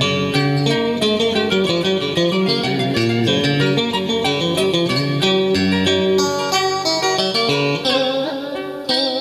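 Instrumental music led by a plucked guitar playing a quick melody line of many short notes.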